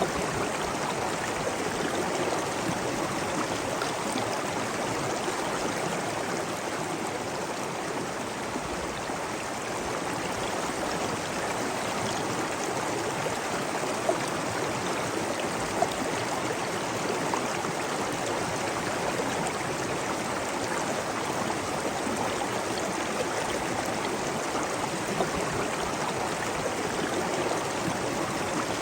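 Steady rushing and babbling of flowing water, with two brief sharp ticks near the middle.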